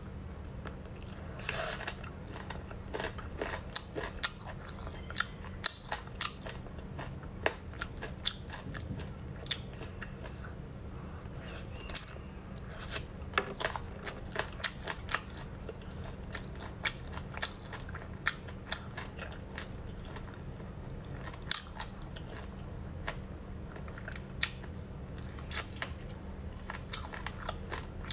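A person chewing and biting sauce-glazed chicken feet, making irregular wet clicks and crunches, over a steady low hum.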